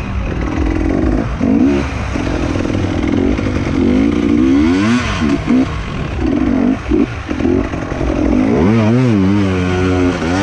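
Enduro motorcycle engine revving up and down repeatedly as the rider works the throttle, its pitch rising and falling many times, with a long climb and drop near the end.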